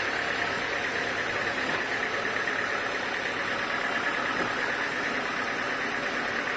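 Sawmill machinery running steadily: a continuous mechanical drone that stays even throughout, with no cutting breaks or impacts.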